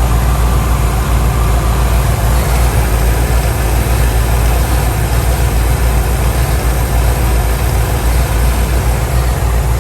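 1992 Ford E350's 5.8-litre V8 idling steadily and evenly, with a new idle air control valve fitted.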